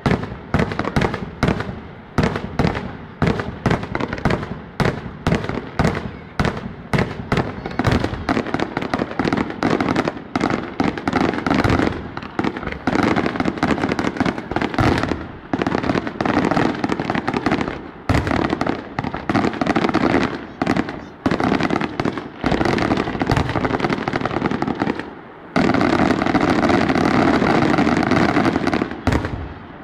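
Fireworks display going off in rapid, near-continuous bangs, several a second. Near the end the bangs merge into an unbroken barrage for a few seconds, then drop off.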